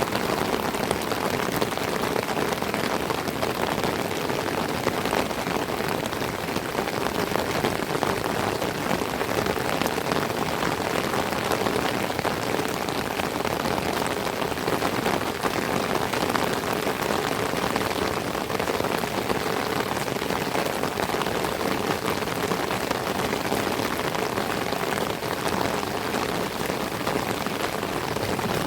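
Heavy rain falling steadily, a dense, even patter of drops on surfaces with no letup.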